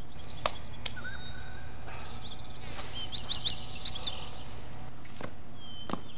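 Small birds chirping in a quick run of short high calls in the middle, over a steady low background hum, with a couple of light knocks near the start.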